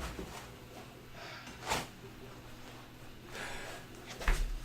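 3D printer parts and their packaging being handled during an unboxing: a short whoosh a little under two seconds in, some light rustling, and a sharp knock near the end as a part is set down.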